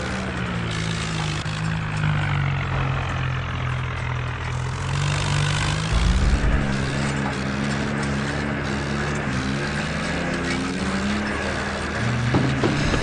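Swaraj tractor's diesel engine running, its pitch stepping up about six seconds in and again near the end as it is revved.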